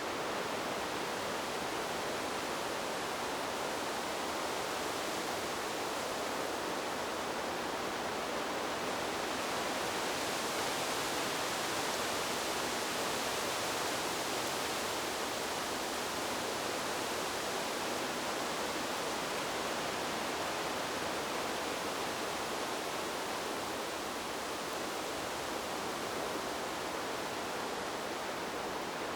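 Wind blowing through trees: a steady, even rushing that swells a little about ten seconds in, then eases.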